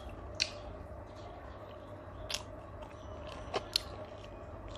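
Close-miked mouth sounds of someone eating grilled chicken: chewing, with a few sharp wet clicks and smacks, the loudest about half a second in and again near the end, over a steady background hum.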